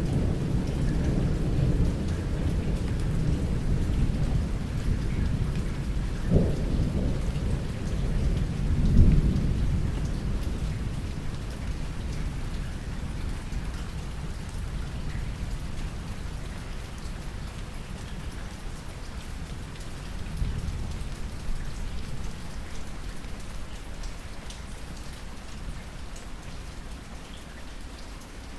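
Steady rain with rolling thunder. The thunder rumbles heavily for the first ten seconds, with two sharper claps about six and nine seconds in, then dies away. A fainter rumble comes back about twenty seconds in while the rain keeps falling.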